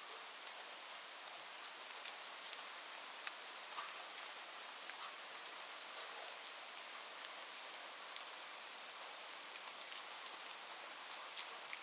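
Steady rain: an even hiss of falling rain with scattered individual drops ticking sharply.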